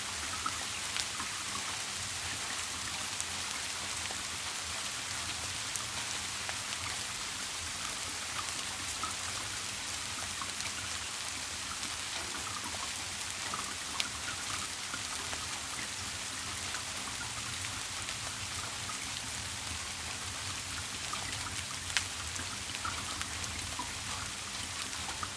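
Steady rain with scattered drops ticking, and two sharper drips, one about halfway through and one near the end. A faint low steady hum sits underneath.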